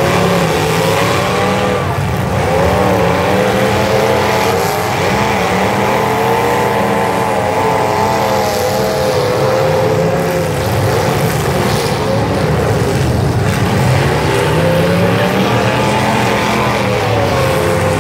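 Engines of several full-size demolition derby cars running and revving together, their pitch rising and falling as the drivers accelerate and back off.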